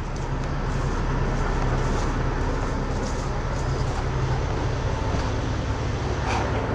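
Heavy-truck diesel engine idling steadily, the Cummins X15 in a Peterbilt 567 wrecker.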